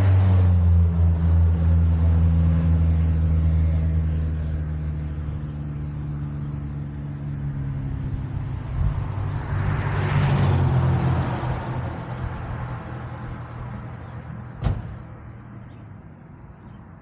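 A vehicle engine running at a steady low note that fades over several seconds, with a swell of broader noise about ten seconds in and one sharp knock near the end.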